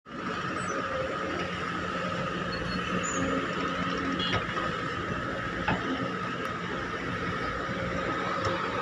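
Excavator's diesel engine and hydraulics running steadily with a constant whine, with a couple of light knocks around the middle.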